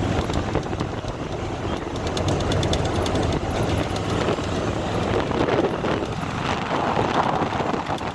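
Vehicle engine and road noise, a steady rumble, with faint rapid clicking during the first three seconds.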